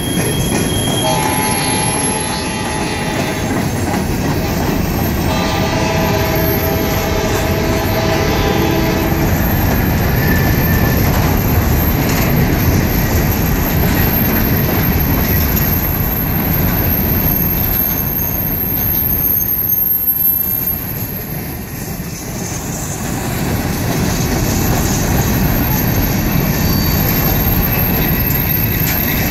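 Open hopper cars of a rock train rolling past close by, with a steady loud rumble of steel wheels on rail. Early on, a train horn sounds twice in long chord-like blasts, the first about a second in and the second at about six seconds, lasting until nine.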